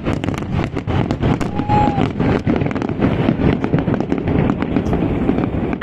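Aerial fireworks going off over a harbour: a rapid, dense crackle of many small sharp reports from bursting shells, over a steady low rumble.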